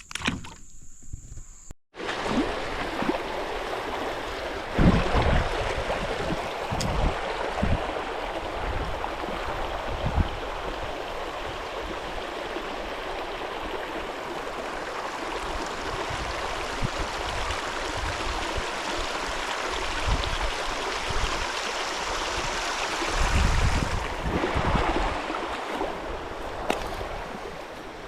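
Creek water rushing steadily, as over a riffle, with a few low thumps or bumps now and then.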